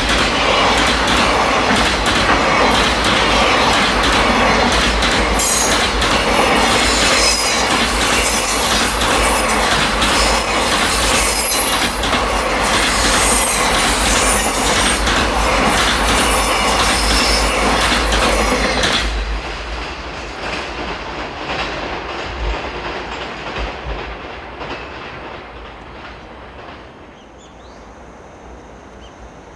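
Freight train passing close by: wheels clattering over rail joints, with faint high wheel squeal. About 19 seconds in, the noise drops sharply as the last wagons go by, then fades away.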